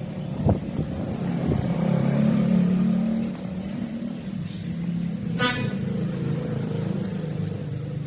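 A car engine running steadily, with a couple of knocks early and a short sharp sound about five and a half seconds in.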